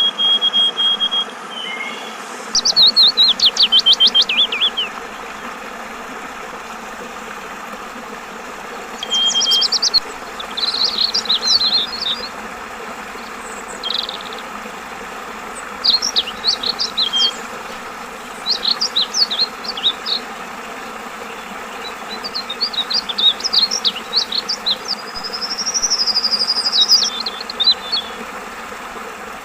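Yellow-vented bulbul singing repeated short bursts of fast, chattering, up-and-down whistled notes, about seven phrases a few seconds apart, over a steady babble of flowing water.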